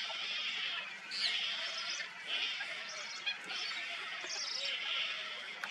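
Birds calling in a repeated series of high, scratchy notes, about one call a second.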